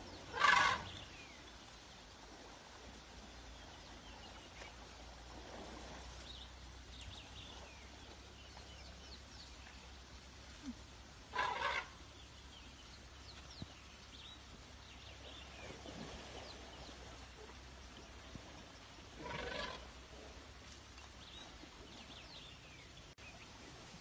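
A bird gives a short, harsh call three times, at the start, about halfway and near the end. Fainter chirps of small birds and a steady low hum run underneath.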